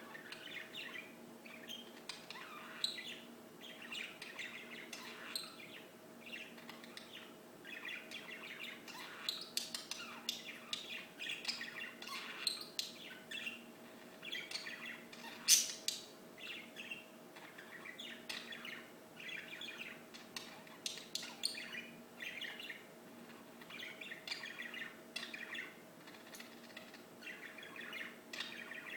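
Small birds chirping and singing continuously in quick, overlapping short calls and trills, with one sharper, louder note about halfway through. A faint steady hum runs underneath.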